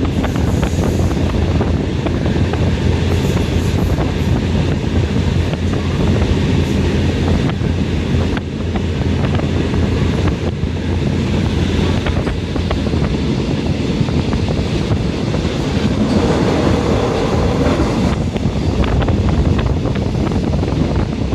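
Passenger train running, heard from inside the carriage: a steady heavy rumble with the clatter of wheels over the rails.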